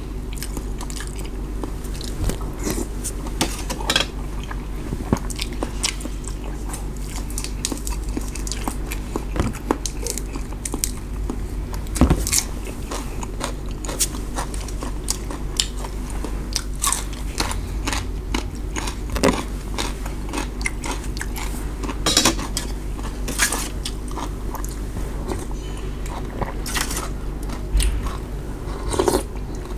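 Close-up eating sounds: chewing and crunching of noodle soup with raw greens and bean sprouts, with irregular sharp clicks, the loudest about 12 and 22 seconds in, over a steady low hum.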